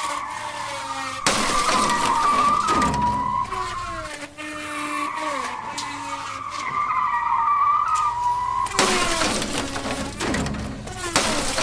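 Race-car sound effects: a long wavering tyre squeal with lower engine tones gliding down in pitch, and two loud rushing stretches, about a second in and again near nine seconds, like cars speeding past.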